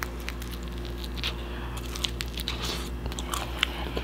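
Close-up chewing of homemade pizza, with many small crunches and wet mouth clicks scattered irregularly.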